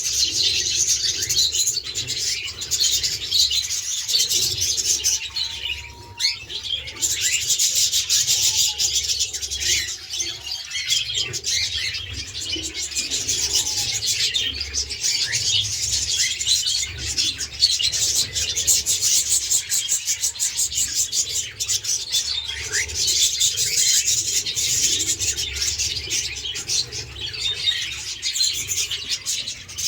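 A flock of budgerigars and cockatiels chattering and chirping continuously, many small calls overlapping into a dense, steady chatter with an occasional short whistle.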